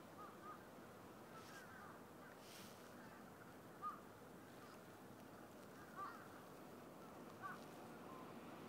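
Near silence: a low outdoor hiss with a few faint, short bird chirps at scattered moments, the clearest about four seconds in.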